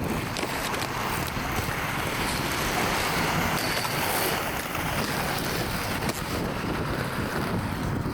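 Steady rushing noise with a fluctuating low rumble, like wind buffeting the microphone.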